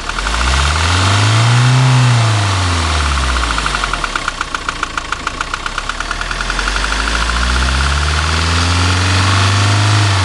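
2007 Ford Transit's 2.4-litre, 115 hp diesel engine revved up twice and dropped back toward idle, with a steady rhythmic knock running under it. The owner cannot place the knock, guessing at the EGR valve or the gearbox.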